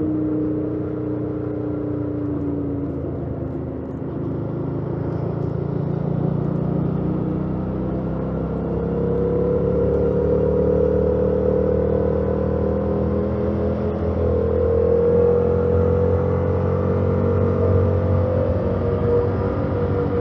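2018 Yamaha MT-07's parallel-twin engine with stock exhaust, running under way. The engine note falls in the first few seconds, then rises as the bike pulls harder from about eight seconds in, and rises again about two-thirds of the way through.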